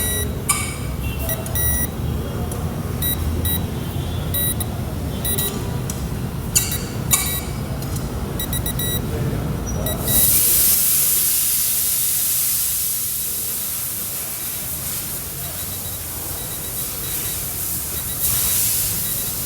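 Low steady rumble with rapid, irregular electronic ticks and short high beeps, typical of an electronic refrigerant leak detector probing around a car's air-conditioning pipes. About halfway through, a loud hiss of escaping gas or spray starts suddenly and slowly dies away, and a second shorter hiss comes near the end.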